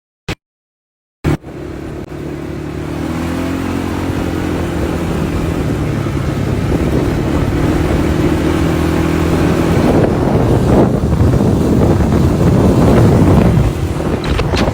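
After a second of dead silence and a click, a dirt bike engine starts to be heard and runs with a steady, slightly wavering note, growing louder through the rest of the clip.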